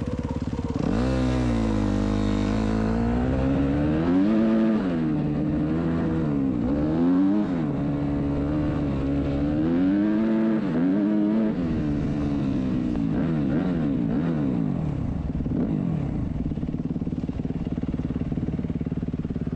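Dirt bike engine riding under load, its pitch rising and falling again and again as the throttle is worked and gears change, then running steadier in the last several seconds.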